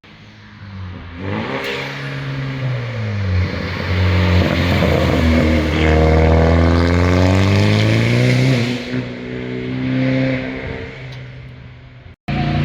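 Sports car exhaust as the car accelerates past: the engine note climbs, drops once at a gear change, swells loud as the car goes by with the pitch falling, then fades. The sound cuts off suddenly near the end.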